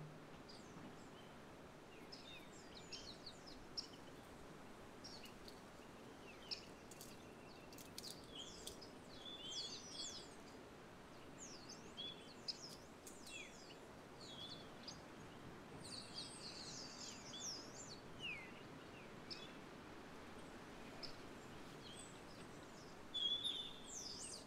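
Small songbirds chirping and twittering on and off over a faint, steady outdoor background hum, with a louder burst of chirps near the end.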